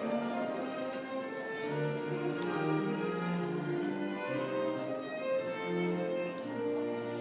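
Classical music played by a string ensemble: a slow melody of held, bowed notes.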